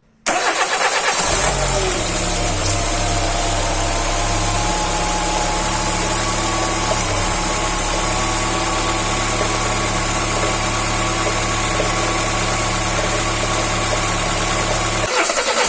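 Car engine idling steadily with its rocker arms freshly oiled, the rocker clatter gone. The sound comes in abruptly just after the start and dips briefly near the end.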